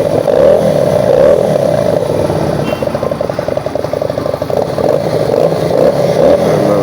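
Italica Moto 250 cruiser's fuel-injected 250 cc parallel-twin engine running, its pitch rising and falling several times.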